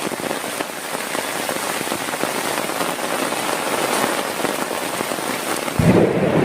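Heavy rain falling steadily on a surface, a dense patter of drop hits over a hiss. Near the end a low thunder rumble starts suddenly and the sound gets louder.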